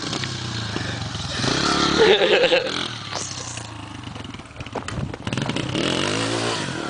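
Dirt bike engine running, revving up near the end.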